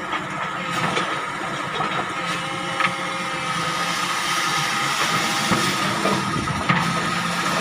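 Heavy pile-driving machinery running with a steady engine drone, with a few sharp metallic clanks.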